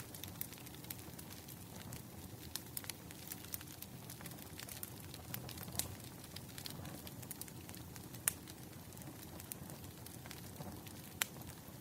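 Wood fire crackling: irregular sharp pops and snaps over a low steady rumble, with a louder pop about eight seconds in and another near the end.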